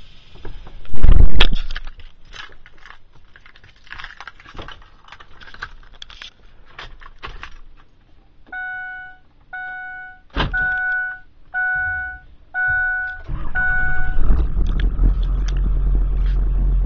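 A loud thump about a second in, then clicks and rattles. An electronic warning chime sounds six times, about a second apart. Near the end the 2003 Ford F-250's 7.3 L Powerstroke V8 turbo diesel starts and settles into a steady low idle.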